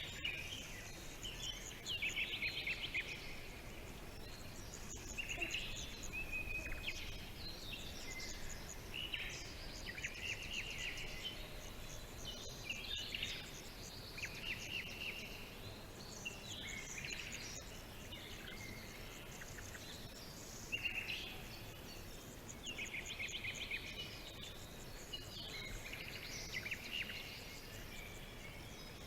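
Birds chirping and singing in short bursts of quick, high chirps every second or two, over a steady faint background hiss.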